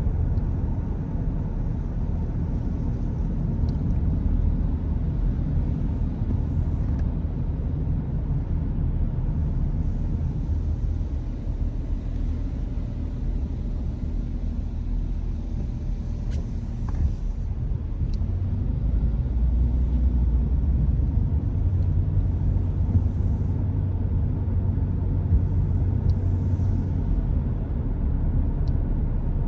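Car driving, a steady low rumble of engine and road noise that grows somewhat louder about two-thirds of the way through, with a few faint ticks.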